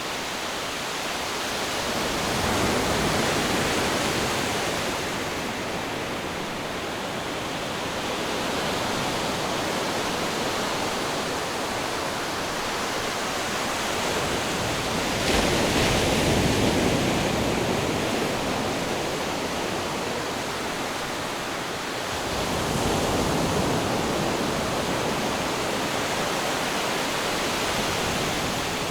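Ocean surf: a continuous rush of water that swells as waves break, about three times, with the loudest wave coming in sharply just past halfway.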